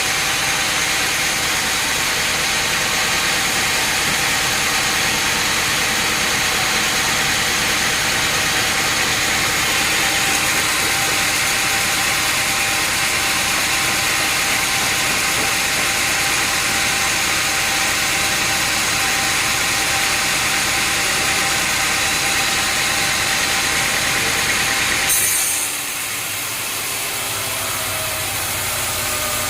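Sawmill machinery running steadily: an engine-driven drone with a loud hiss on top. About 25 seconds in the sound breaks off abruptly into a quieter machine hum.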